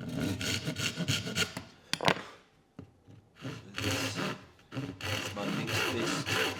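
Repeated short scraping strokes of a hand tool on soft Japanese cedar, with a sharp click about two seconds in and a brief pause around the middle; the strokes settle into a steady back-and-forth rhythm near the end.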